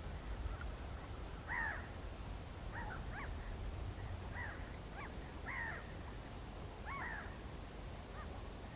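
Whooper swans calling: about eight short calls, each bending up and down in pitch, spaced irregularly. A steady low rumble lies underneath.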